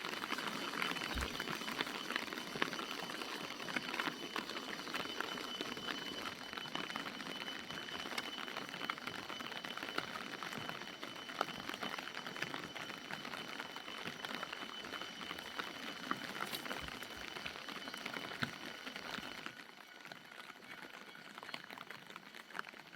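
Running water: a steady rush of flowing water with a thin, steady high tone above it, easing off a little near the end.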